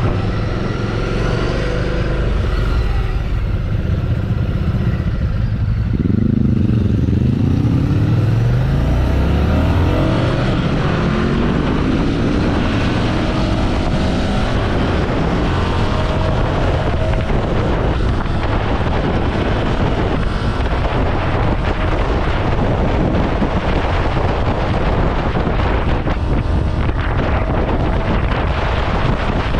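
Ducati Scrambler Sixty2's air-cooled L-twin engine heard from the bike while riding. It rises in pitch as it accelerates about six to nine seconds in, then runs at a steady cruise with wind rushing past.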